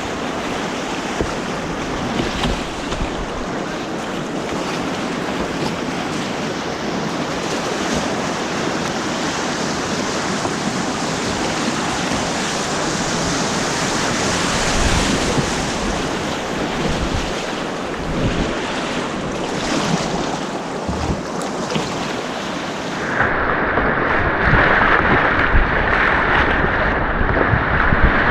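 Rushing white water on an artificial white-water course, with wind buffeting the action camera's microphone. About 23 seconds in the sound turns duller and deeper and grows a little louder.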